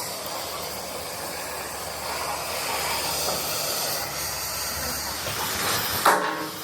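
Steady hissing, with one loud ringing metallic clang of struck steel about six seconds in.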